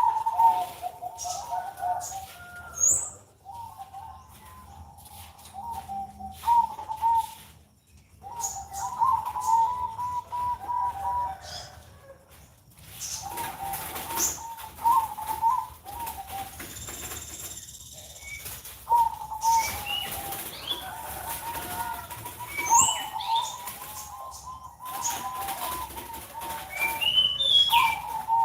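Perkutut (zebra dove) cooing in repeated phrases of quick, pulsing notes, with short pauses between phrases. Brief high chirps from other small birds sound over it.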